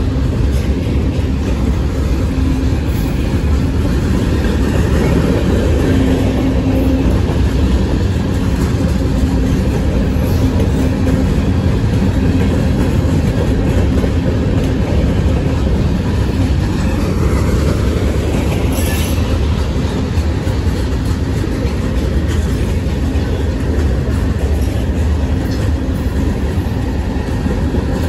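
Cars of a long freight train rolling past close by at steady speed: a loud, continuous rumble and clatter of steel wheels on rail, with a brief high squeal about two-thirds of the way through.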